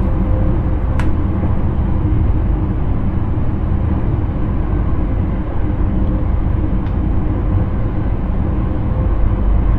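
Steady running noise of an intercity train heard inside the driver's cab: a low rumble with a faint steady hum over it. A sharp click comes about a second in, and a fainter one near the seventh second.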